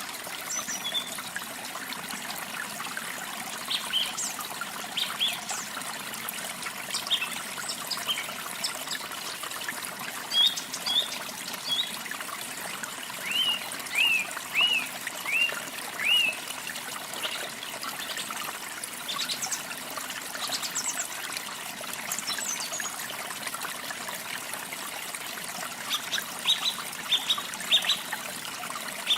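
Water trickling steadily under small birds chirping. A row of short falling chirps comes about halfway through, and a quick run of chirps near the end.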